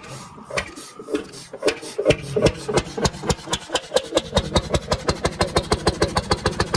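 An old engine starting: single firing knocks, slow and spaced at first, come quicker and quicker until they settle into a rapid, even beat as the engine picks up speed.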